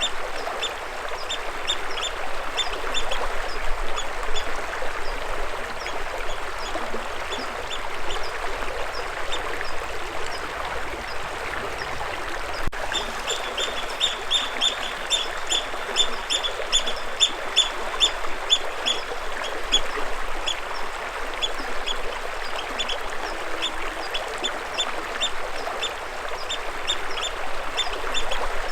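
Running stream water, a steady rushing, with a bird calling over it in runs of short, quick chirps, several a second, loudest about halfway through.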